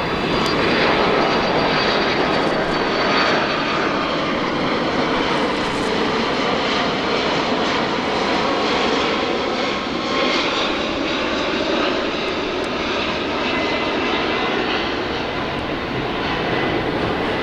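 Turbofan engines of a Boeing 767-300ER airliner running near the airfield: a loud, steady jet rush with a faint high whine above it.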